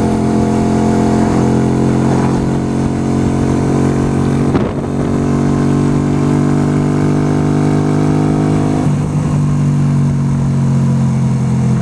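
Yamaha YBR125's single-cylinder four-stroke engine running steadily as the motorcycle is ridden, its pitch shifting briefly about four and a half and nine seconds in, with wind rumble on the microphone.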